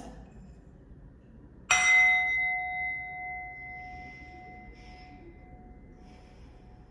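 A small metal bell struck once, ringing on with a clear tone that fades slowly over several seconds.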